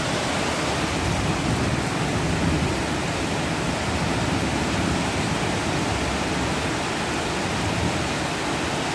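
Heavy rain falling steadily, a dense even wash of sound with no thunder.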